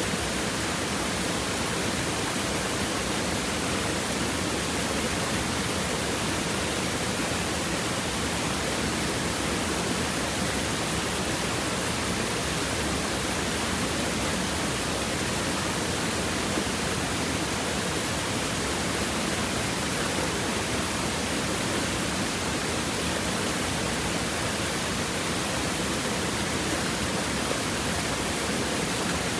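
Stream water flowing over and between rocks, a steady, even rushing and babbling that does not change.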